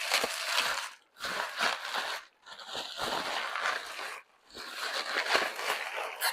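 Plastic packaging crinkling and rustling in four bursts of about a second each as it is handled and unwrapped.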